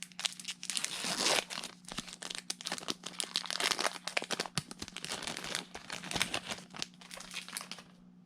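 Foil wrapper of a Pokémon TCG Sun & Moon booster pack being torn open and crinkled by hand: dense crackling that stops shortly before the end.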